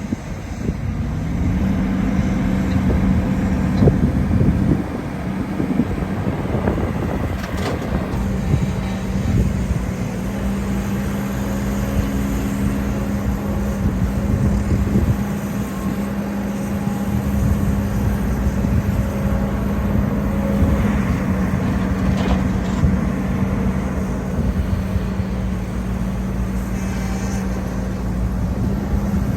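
Heavy diesel earthmoving machinery running steadily, with a constant low engine hum and a few knocks along the way.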